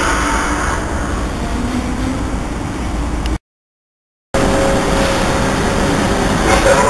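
Passenger trains running through a railway station, a steady low rumble. The sound drops out completely for about a second partway through, then the rumble resumes with a steady hum.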